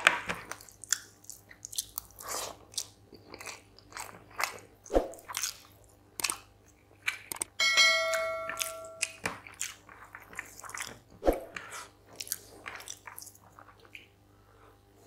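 Close-miked chewing and wet mouth sounds of a person eating rice and chicken curry by hand, with frequent smacks and bites. About seven and a half seconds in, a short chime sound effect rings for about a second and a half.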